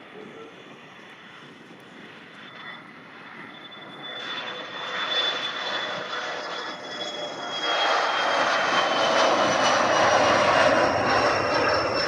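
An airliner's engines passing close by. The roar swells about four seconds in and grows loud from about eight seconds on, with a high whine that slowly falls in pitch.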